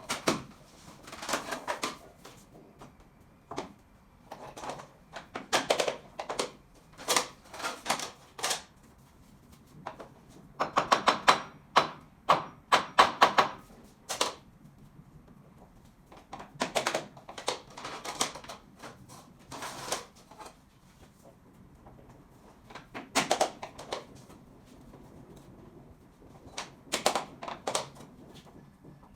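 Bursts of rapid, sharp tapping on SPC stone-plastic floor planks, knocking the click-lock joints together. Six or so bursts come a few seconds apart, the loudest in the middle.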